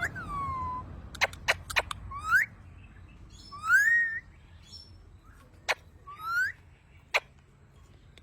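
Pet parrot whistling: a falling whistle at the start, then three short rising whistles, the middle one longest, mixed with sharp clicks.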